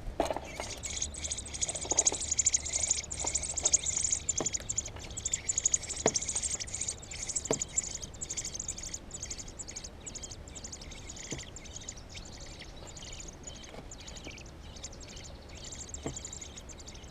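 Nestling birds chirping in a rapid, high-pitched chorus, loudest for the first several seconds and then dropping to a weaker chatter, with a few scattered clicks.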